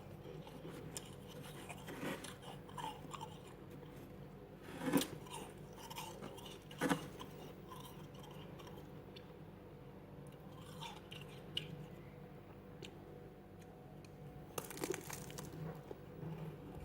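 Freezer frost being bitten and chewed: scattered crisp crunches, the sharpest about five and seven seconds in and a quick run of them near the end.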